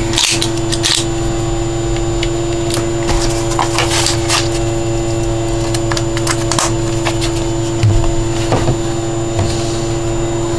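A loud steady hum with one constant tone, overlaid by scattered light clicks and rustles.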